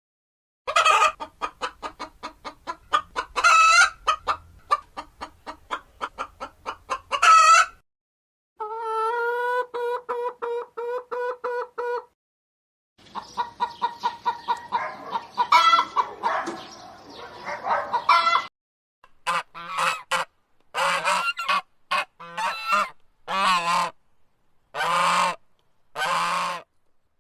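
Farm fowl calls: a chicken clucking rapidly with a few louder squawks, then a held pitched call, then a run of separate goose honks.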